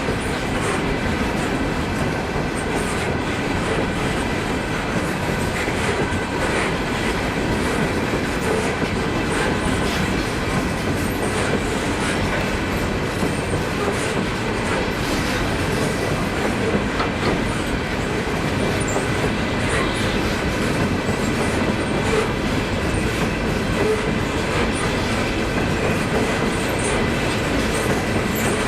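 Railroad cars rolling past steadily, with wheel-and-rail noise, clicking over rail joints and a faint, steady high wheel squeal.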